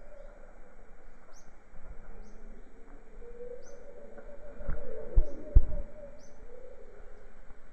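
Birds calling: short, high, falling chirps repeat about once a second over a lower, wavering, drawn-out call. A few loud, low thumps come a little after halfway.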